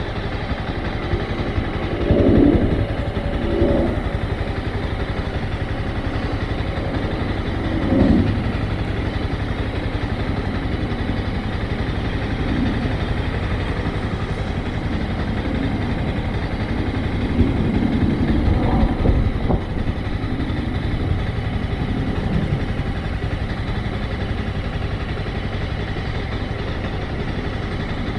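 Motorcycle engine running at low speed, with several short louder surges and a longer one about two-thirds of the way through.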